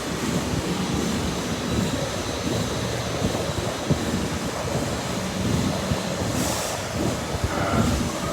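CNC lathe running while cutting a key slot: a steady, low, rumbling machine noise, with a brief hiss about six and a half seconds in.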